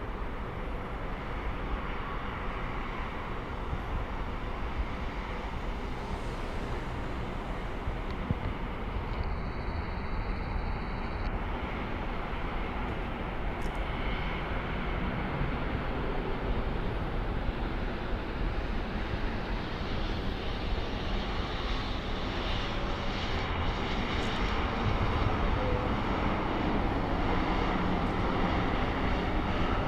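Jet airliner engines running: a steady roar that grows gradually louder over the last third.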